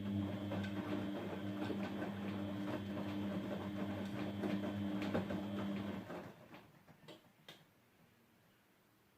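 Grundig GWM4762WE20 washing machine running in its final rinse stage: a steady hum with irregular crackling and splashing. The hum stops about six seconds in, followed by two sharp clicks.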